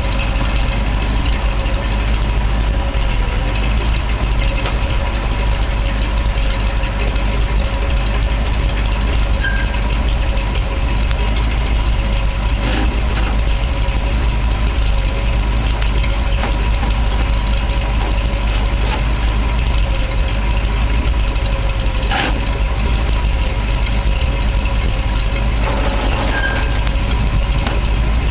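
1968 International Harvester 1300 dump truck's engine idling steadily while the dump bed is raised. A steady tone sits over the engine sound, and there are two short knocks, around the middle and about ten seconds later.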